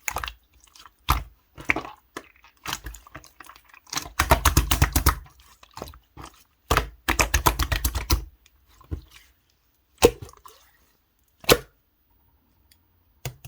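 Red translucent slime being squished and pressed by hand, making wet clicks and pops, with two runs of rapid clicking and a few single snaps.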